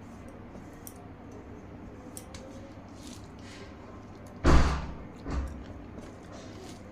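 Faint ticks of food and a plate being handled at a meal, then one loud thump about four and a half seconds in and a smaller one just after, like the plate or a bowl knocking on the table or the microphone being bumped.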